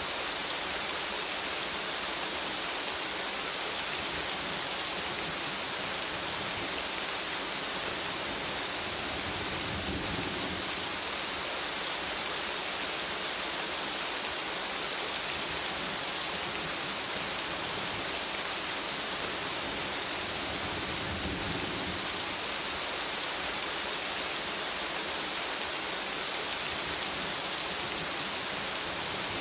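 Steady rain falling, an even hiss, with two brief low rumbles, about ten seconds and about twenty-one seconds in.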